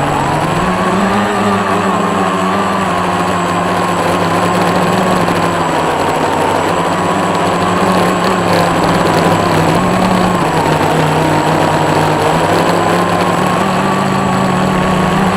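Scratch-built quadcopter's motors and propellers humming in flight, the pitch wavering up and down with throttle, over a steady hiss.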